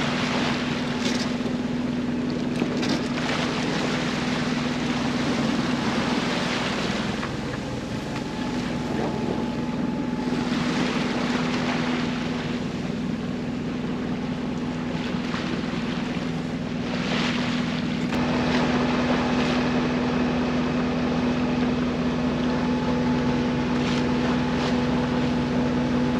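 A sailboat's inboard engine running steadily under way, with water washing past the hull in surges every few seconds and wind on the microphone. About eighteen seconds in, the engine note gets a little fuller and louder.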